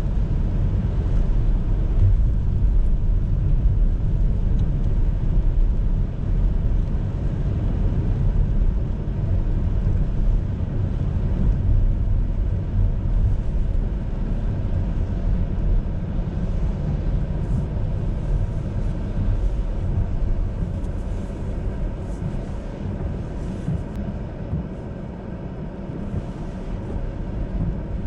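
A car being driven, heard from on board: a steady low rumble of road and engine noise, easing off for a few seconds near the end before picking up again.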